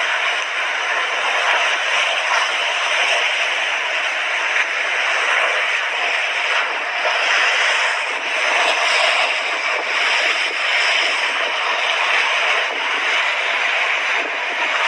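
Mediterranean sea waves washing onto the shore: a steady rush of surf that swells and eases gently.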